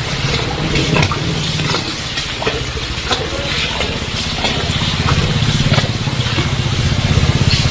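Heavy rain falling, with separate drops striking close by, over a vehicle engine running that gets louder about halfway through.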